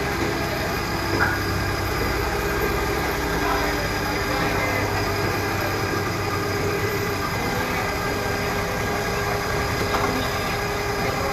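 An engine running steadily at idle, with a couple of light knocks.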